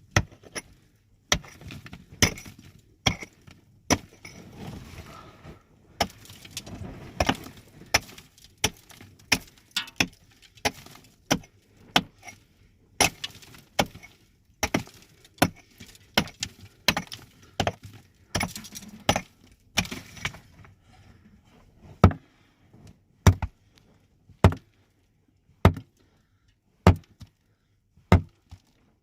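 Repeated sharp strikes of a hand tool on something hard, about one a second, settling into an even, steady beat in the last several seconds.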